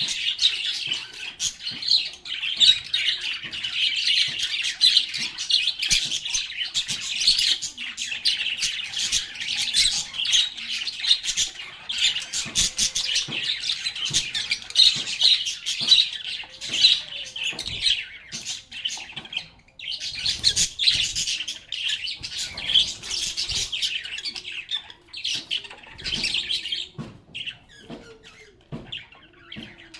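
A group of lovebirds chattering with dense, rapid chirps and shrill squawks, with a brief lull about two-thirds of the way through and sparser calls near the end.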